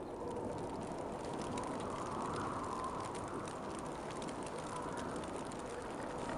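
Steady winter wind, swelling a little about two to three seconds in, with faint fine ticking mixed through it.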